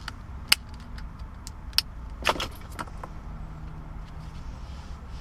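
A few sharp plastic clicks and light rattling, the loudest about half a second in and just under two seconds in, as wiring connectors are unplugged from the center console trim.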